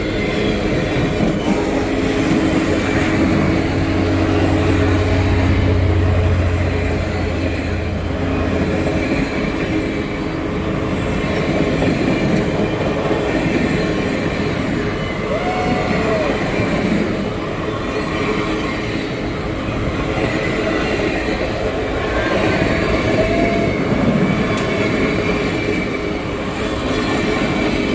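Big Boy No. 4014 steam excursion train rolling past: a steady rumble of wheels on rail. A couple of brief wheel squeals come about halfway through and again later on.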